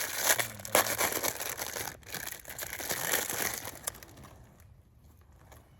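Plastic snack wrapper crinkling and tearing as a honey bun is opened, dying away after about four seconds.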